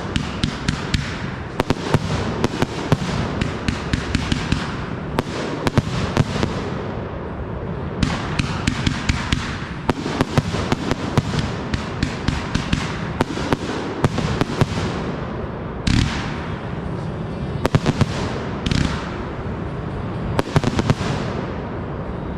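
Consumer fireworks going off in rapid succession: dense sharp bangs and crackling with no break, and a few louder booms in the second half.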